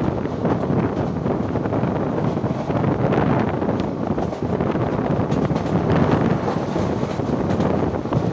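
Ananthapuri Express passenger train running at speed, a steady loud rush with wind buffeting the microphone and faint scattered clicks from the track.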